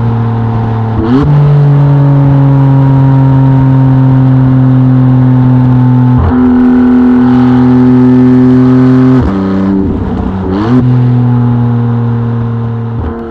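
Maserati MC20's twin-turbo V6 through a Novitec race exhaust, running loud under throttle. Its note breaks and steps in pitch about a second in, around six seconds, and twice around ten seconds, like gear changes, then starts to fade at the end.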